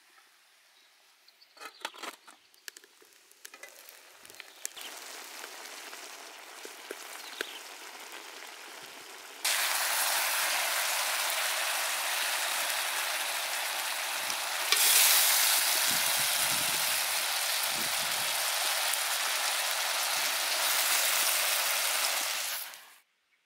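Chicken feet and mushroom slices sizzling as they fry in a wok, a few sharp clicks about two seconds in. The sizzle grows, jumps louder about ten seconds in and again around fifteen seconds, then cuts off suddenly just before the end.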